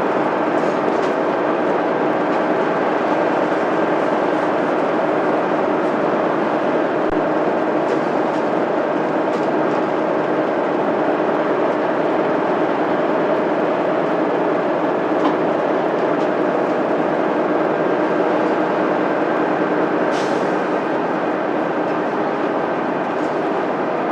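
Mitsubishi Fuso Aerostar city bus's 6M70 six-cylinder diesel running steadily as the bus travels along, with road and tyre noise, heard from inside the cabin.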